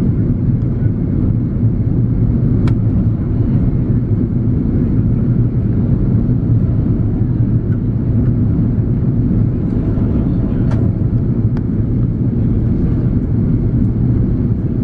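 Steady low drone of an Airbus A330-300 in flight during its descent, from its Pratt & Whitney PW4168A engines and the airflow over the fuselage. Three faint clicks sound over it.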